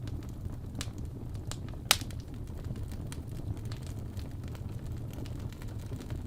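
Wood fire in a fireplace crackling, with scattered small pops and one sharp, louder pop about two seconds in, over a steady low rumble.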